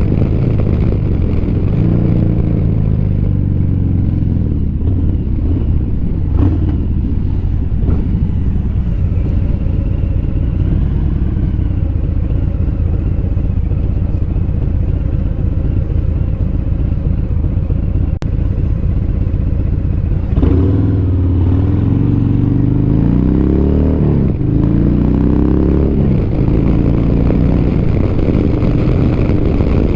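Motorcycle engine running at road speed, with heavy wind rumble on the helmet-mounted microphone. About twenty seconds in, the engine note drops and then rises several times.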